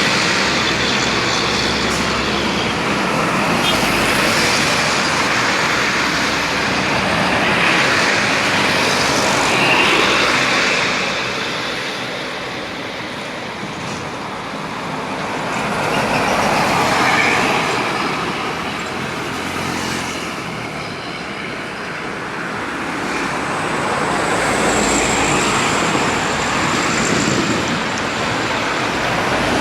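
Road traffic noise: vehicles passing, with tyre and engine noise swelling and fading several times.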